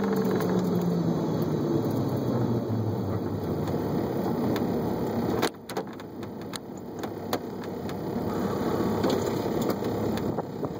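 Heavily modified Honda S2000 four-cylinder engine heard from inside the cabin, its note falling steadily as the car slows off the throttle. About five and a half seconds in it suddenly drops to a quieter, rougher running with scattered clicks and rattles.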